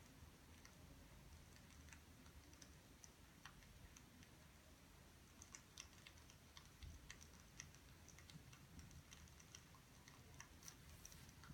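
Faint, irregular light clicks and ticks, a few each second and more frequent in the second half, over a low steady room hum.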